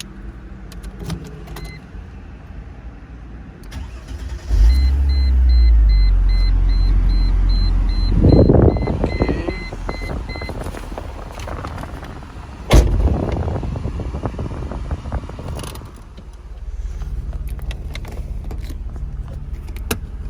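Supercharged 3.2-litre V6 of a Mercedes SLK32 AMG starting from cold: a sudden low rumble about four seconds in, then it runs fast and loud while a dashboard chime beeps about twice a second for several seconds. A sharp bang comes about halfway through, and the engine then settles to a lower, steadier idle.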